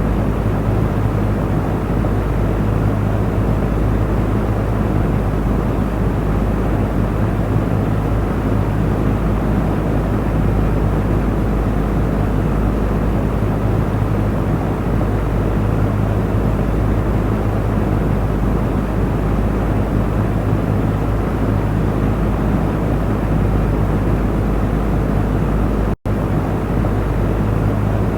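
Electric fan running steadily: a constant rushing of air with a low motor hum beneath it, cut by a split-second gap near the end.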